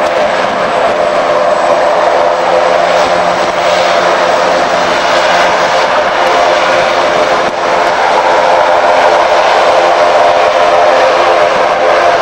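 Aircraft engines running loud and steady, with a dense cluster of tones and a brief dip about seven and a half seconds in.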